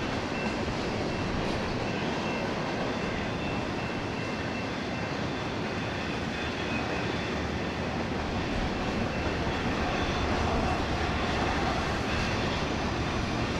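Freight train rolling past: a steady, even rumble of locomotives and railcars, with faint steady high-pitched tones over it for the first few seconds.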